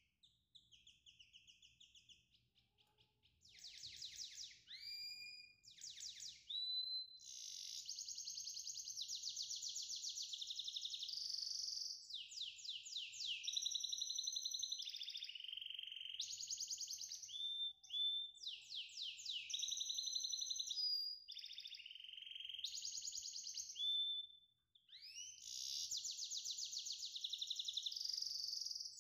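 A small songbird singing almost without pause: long, fast trills of repeated high notes mixed with rising and falling whistled glides. It is faint for the first few seconds and louder from about three seconds in.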